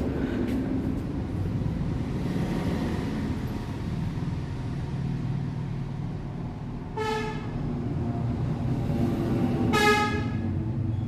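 Steady low traffic rumble with two short vehicle horn honks, one past the middle and a slightly longer one near the end.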